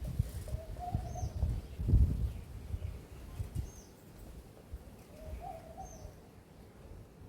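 Birds calling: a short, high, falling chirp repeats about every two seconds, and a lower warbling coo comes twice, over irregular low thumps and rumble.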